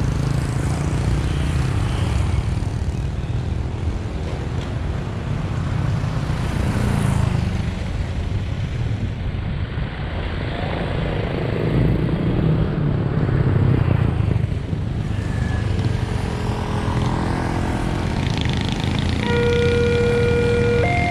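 A bus's diesel engine running with road noise. Near the end, a sustained pitched tone sounds and steps up in pitch about a second and a half later.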